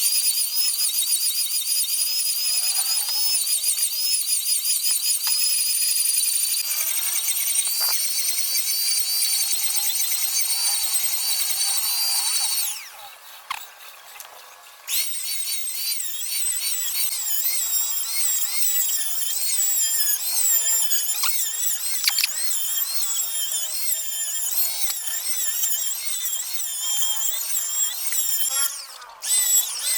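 Electric power tool running with a high, wavering whine. It stops for about two seconds near the middle, then starts again.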